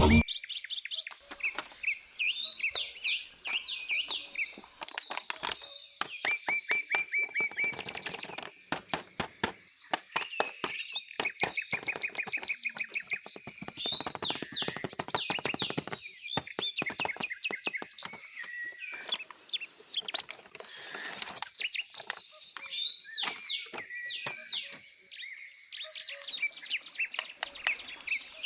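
Small birds chirping and twittering, with quick trills of repeated notes and many short sharp clicks mixed in.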